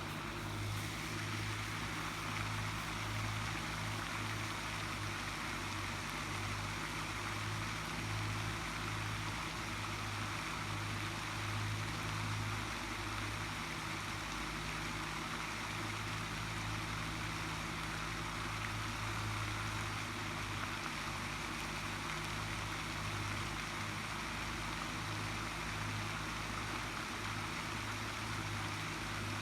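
A steady low hum under an even, unbroken hiss.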